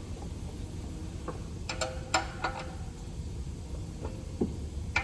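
A few light clinks and clicks, some briefly ringing like metal, over a steady low hum, followed by a single duller knock near the end.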